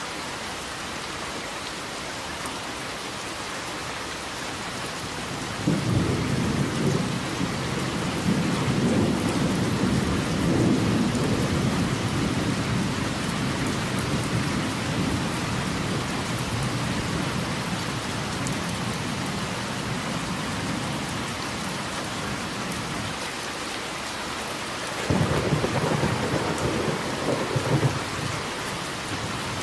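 Steady rain falling, with a thunder rumble that starts suddenly about six seconds in and rolls on for over fifteen seconds, then a second peal of thunder near the end.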